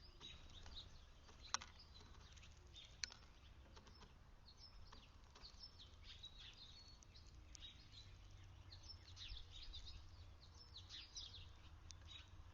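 Small songbirds chirping faintly, many short high calls overlapping, with two sharp clicks about a second and a half in and again at about three seconds.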